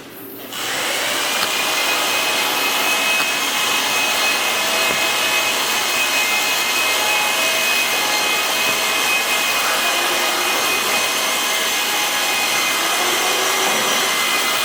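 A motor-driven machine running steadily: an even rushing noise with a constant high whine, starting about half a second in.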